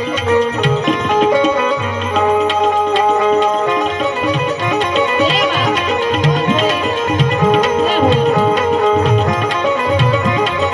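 Gujarati santvani bhajan music: tabla strokes keep a steady rhythm under long held melodic tones.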